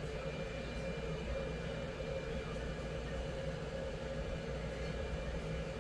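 Steady drone of a Boeing 757-200 airliner: a constant low rumble with a few unchanging hum tones, not rising or falling.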